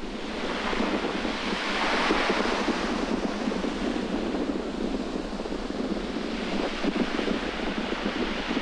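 Strong wind buffeting the microphone over the wash of sea surf, the surf hiss swelling about two seconds in and again near the end.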